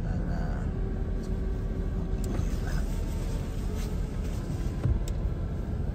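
Steady low rumble inside a car's cabin, the car standing with its engine idling, with faint music over it.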